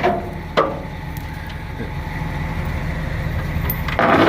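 Dump truck engine running steadily with its bed raised to free a rock stuck in the tailgate. There is a sharp knock about half a second in and a louder, noisy burst near the end.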